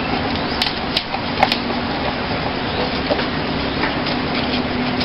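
Knife scraping the scales off a large milkfish: a few sharp clicks and scratches, over a steady background hiss with a low hum.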